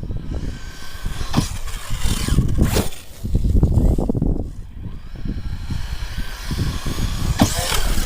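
Arrma Outcast 6S brushless RC truck being driven: the motor whines up and down with the throttle, over a low rumbling noise, with a couple of sharp knocks.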